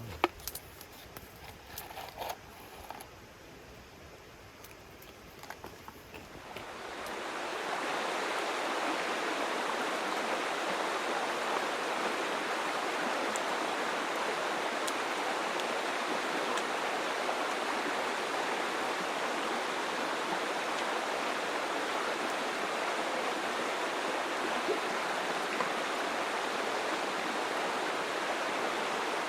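A few faint clicks and knocks, then about seven seconds in a steady rush of flowing water fades in and holds evenly.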